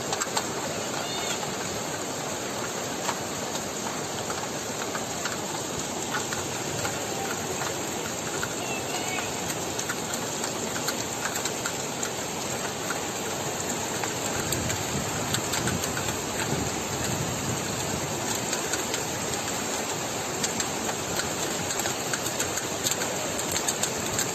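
Heavy rain falling: a steady, dense hiss dotted with many small drop impacts, growing a little louder about halfway through.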